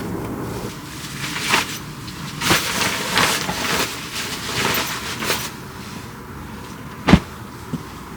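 Handling noises: a run of short scraping strokes over a few seconds, then a single sharp knock near the end.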